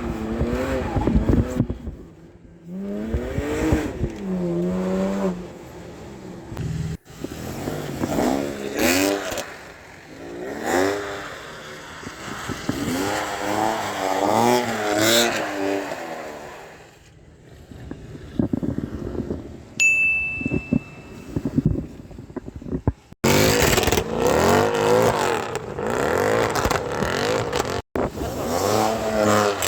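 Straight-piped BMW E92 328i's straight-six revving up and down over and over, its pitch rising and falling in repeated throttle blips and pulls as the car is drifted. The sound breaks off abruptly a few times.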